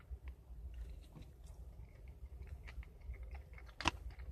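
Close-up chewing of a mouthful of burger, with soft wet mouth clicks over a low steady rumble. One sharp, louder click comes a little before the end.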